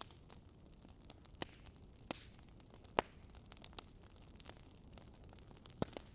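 Wood fire crackling: irregular sharp pops and snaps from burning logs over a low, steady hiss, with the loudest pop about halfway through.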